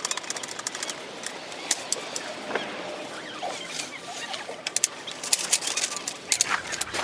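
Irregular clicks, taps and clatter of camping gear being handled and set up, with a bird calling faintly.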